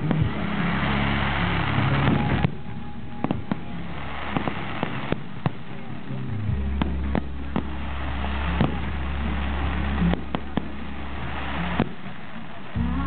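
Fireworks going off: sharp bangs and crackles at irregular intervals, over a steady low rumble.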